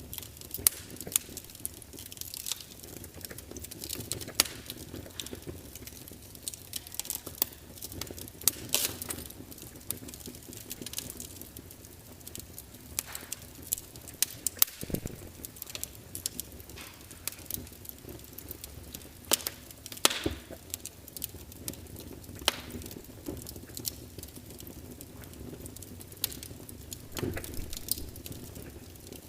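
Log fire crackling, with frequent irregular pops and snaps from the burning wood over a low steady hiss.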